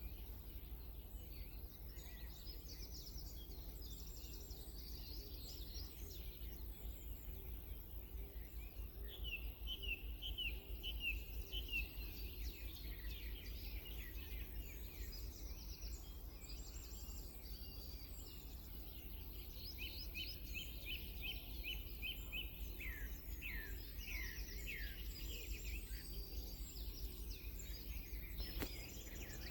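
Small birds singing outdoors: scattered high chirps and a couple of phrases of quick repeated notes, over a steady low rumble.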